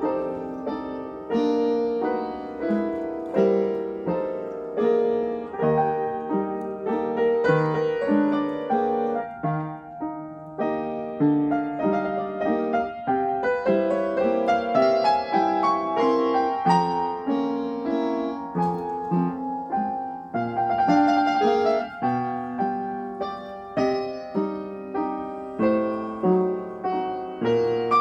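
Background piano music, a run of struck notes with a quick gentle melody.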